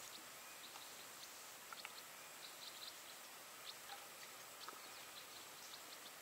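Faint bird chirps, short and scattered, against near silence.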